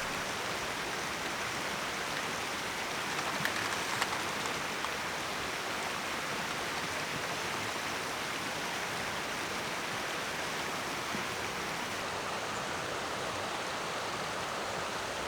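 Steady hiss of rushing water, with a few faint ticks about three to four seconds in.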